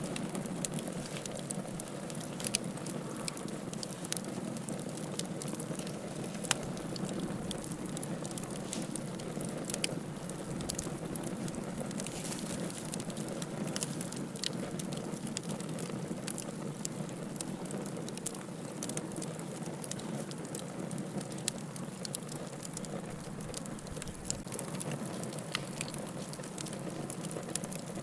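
Firewood burning in a fireplace: a steady low rush of flame with frequent sharp crackles and pops scattered throughout.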